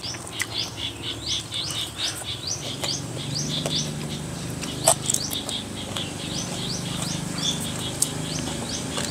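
A bird chirping over and over in short rising chirps, about three a second, over a low steady hum, with a few sharp clicks.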